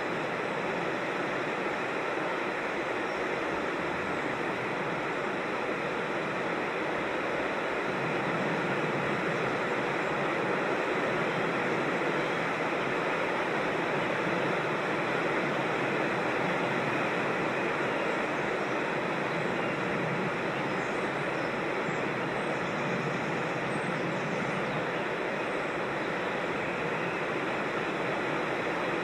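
Steady rush of water from a creek and small waterfalls, an even wash of noise that grows a little louder about eight seconds in.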